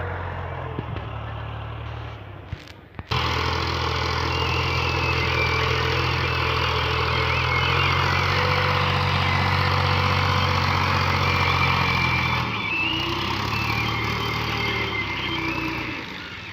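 Tractor's diesel engine running steadily. The sound dips and breaks off briefly about two to three seconds in, comes back loud, and eases a little after about twelve seconds.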